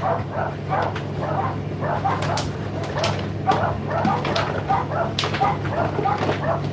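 Indesit IDC8T3 condenser tumble dryer running, with a steady motor hum under irregular clicks and knocks of the tumbling load and repeated short squeaky chirps.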